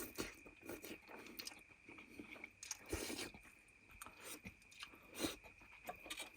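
Close-up chewing and eating sounds, with irregular small clicks and scrapes as a mouthful of food is eaten.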